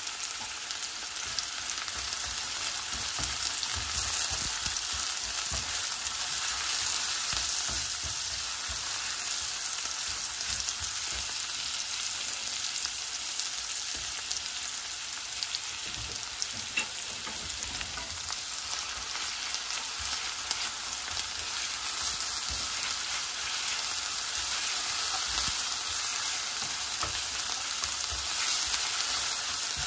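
Diced onions frying in oil in a wok, a steady sizzle, with the scrape and knock of a nylon spatula stirring them now and then.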